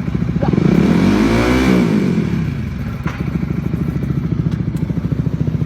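Honda CBR150R single-cylinder engine running through an aftermarket Akrapovic slip-on exhaust. It is blipped once about half a second in, rising in pitch and falling back to idle by about two seconds, then idles steadily.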